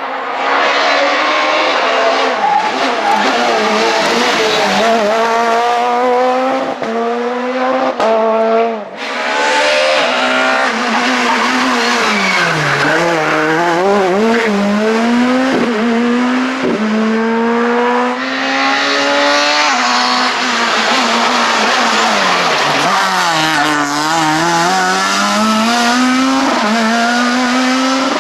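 Super 2000 rally car's naturally aspirated 2.0-litre four-cylinder engine at full throttle on a rally stage. It revs up through the gears with quick upshifts, then a brief break about eight seconds in. Later the revs fall away twice under braking and climb again on the power.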